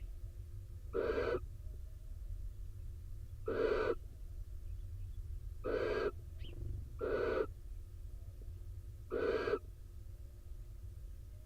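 Barn owl in the nest box giving short hoarse calls, five in a row, each about half a second long and two to three seconds apart.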